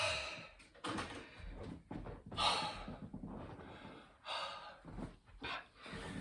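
A man's heavy, gasping breaths from hard exertion during high-rep burpees, coming about once a second.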